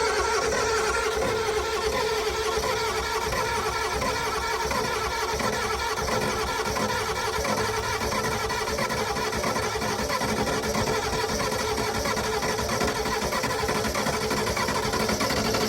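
IDI diesel V8 turning over on the starter without firing, a steady, fast, even churning rhythm. It sounds low on compression on most of its eight cylinders and shows no oil pressure while cranking, which the owner takes to mean the engine might be blown.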